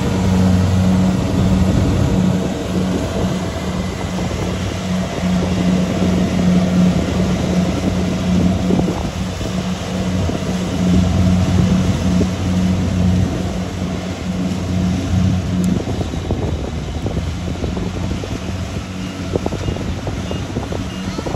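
Rice combine harvester's engine running steadily under noisy wind buffeting on the microphone. The engine hum weakens about three-quarters of the way through.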